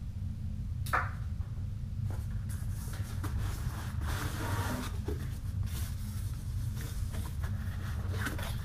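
Packaging and parts being handled while unboxing an airgun compressor kit: scattered rustles and light clicks of plastic and cardboard, with a sharp click about a second in, over a steady low hum.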